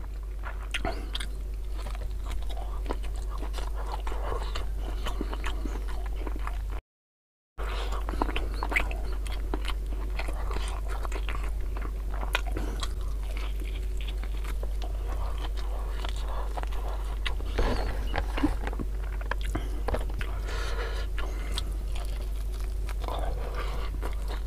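Close-miked eating sounds: a man biting and chewing spicy beef tongue and rice, with many small wet clicks of the mouth over a steady low hum. The sound drops out for under a second about seven seconds in.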